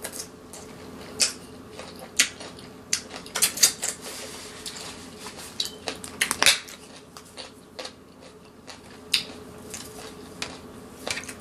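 Close-up eating sounds: chewing with scattered sharp clicks and taps of cutlery and dishes, over a faint steady hum.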